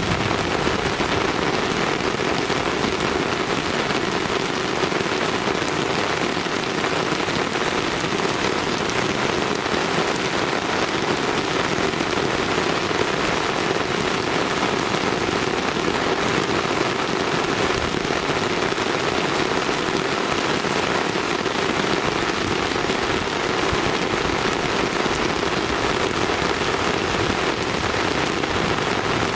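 A steady, even hiss like falling rain, with no birdsong or other distinct events standing out.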